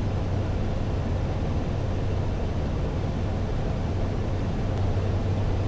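Steady in-flight cabin drone of a Cessna Caravan's single turboprop engine and propeller: a constant low hum under an even rush of noise.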